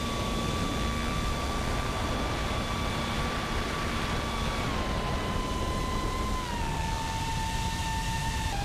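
Small multirotor drone's motors and propellers whining steadily, the pitch stepping down twice in the second half as the throttle is eased, over steady wind-like noise.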